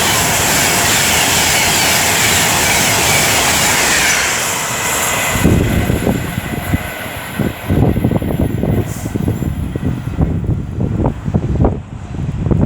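Class 390 Pendolino electric train passing through at speed: a loud, steady rush of air and wheel noise that cuts off suddenly about five seconds in as the last coach goes by. Gusty wind buffeting on the microphone follows in its wake.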